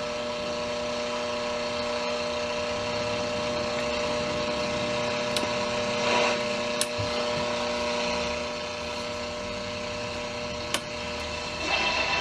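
Static hiss from a Hallicrafters S-120 four-tube shortwave receiver's speaker, with steady whistle tones under it, as the set plays between stations. A few sharp clicks cut through, around the middle and near the end.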